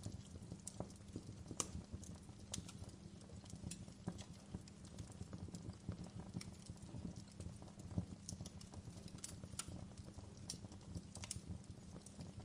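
Fire crackling: irregular sharp pops and snaps, a few a second, over a steady low rumble.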